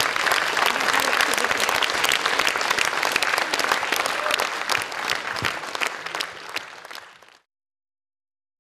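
Studio audience applauding, thinning out and fading after about five seconds, then cut off abruptly to silence about seven seconds in.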